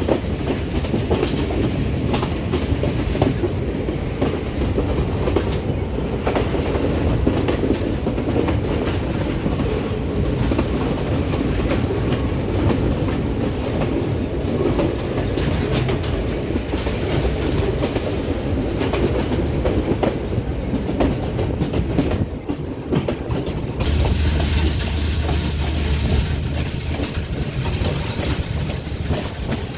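Passenger train carriage running along the track: a steady rumble with wheels clacking over rail joints. About two-thirds of the way through the sound dips briefly, then turns brighter and hissier with a low hum for a few seconds.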